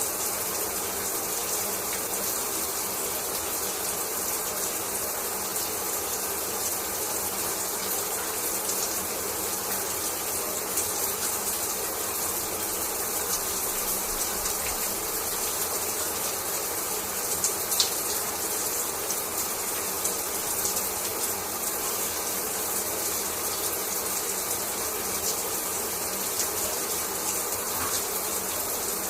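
Shower water running steadily, spray falling with a constant hiss, with a couple of brief clicks about two-thirds of the way through.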